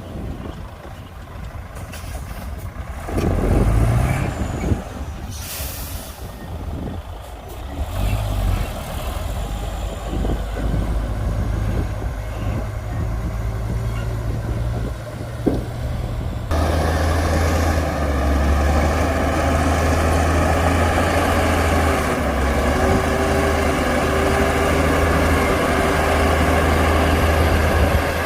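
Heavy diesel earthmoving machinery working: a bulldozer and dump truck engines running under load. There is a brief air hiss about five seconds in. About two-thirds of the way through, the engine sound suddenly becomes louder and fuller.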